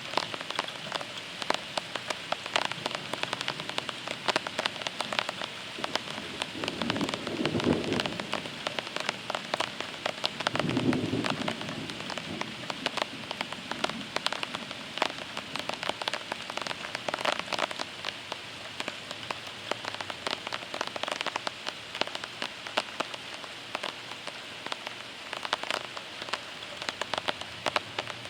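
Heavy rain pattering steadily on a surface in a thunderstorm, full of close individual drop ticks. There are two short low rumbles in the first half.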